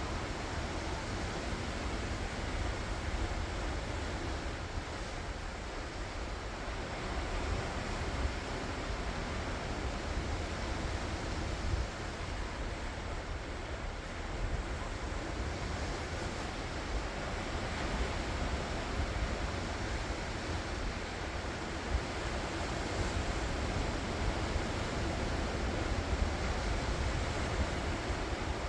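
Ocean waves washing ashore in a steady surf, with wind rumbling on the microphone.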